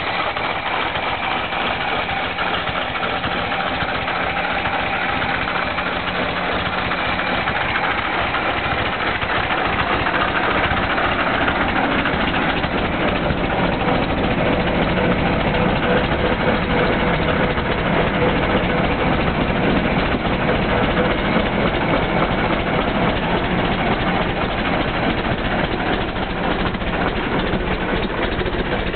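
1927 Ford Model TT truck's original four-cylinder flathead engine, still on its cast iron pistons, running steadily just after being started for the first time since 1941, getting a little louder about ten seconds in.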